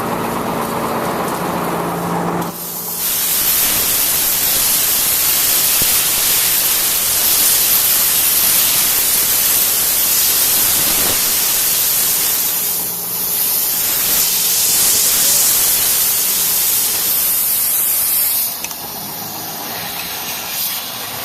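A truck's diesel engine idling, then a loud steady hiss starts sharply about two and a half seconds in. The hiss runs for about a quarter minute, dips briefly about halfway, and drops away a few seconds before the end.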